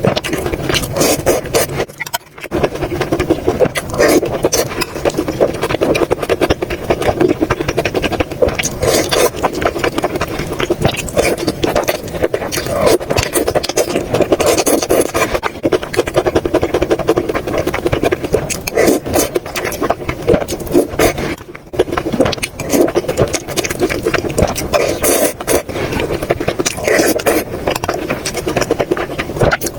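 Close-miked eating sounds: continuous chewing and wet mouth noises with many small crackles, pausing briefly twice.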